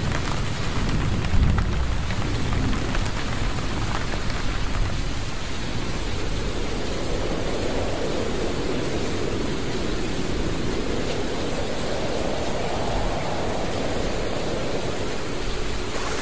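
Steady heavy rain with gusting storm wind, a whooshing swell that rises and falls twice in the middle. A low rumble of thunder near the start.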